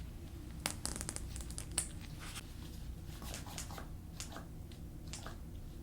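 Suction cupping cups being handled and set on a patient's back: a quick run of clicks about a second in, then scattered clicks and short rasps.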